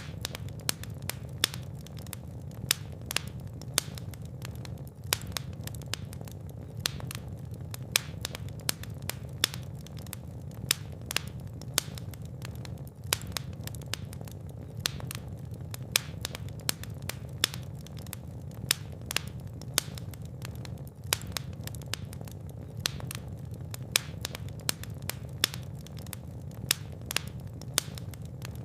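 Wood fire crackling and popping, with frequent sharp irregular pops over a steady low rumble of flames.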